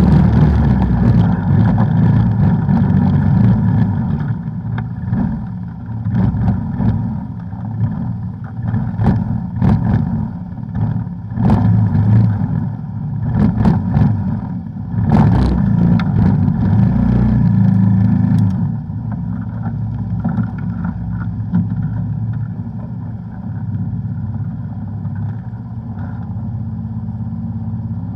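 Off-road vehicle engine running and pulling, with frequent sharp knocks and clatter through the middle stretch. It settles into a steadier, slightly quieter run after about eighteen seconds.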